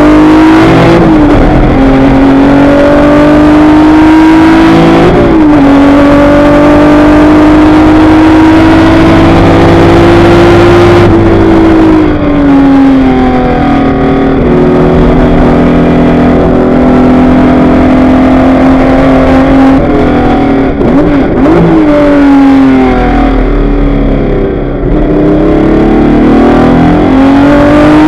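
Ford Capri RS 2600 race car's V6 engine heard onboard at racing speed: it pulls hard with quick upshifts about one and five seconds in, eases off around the middle, and is blipped through several quick downshifts about two-thirds of the way through before pulling again.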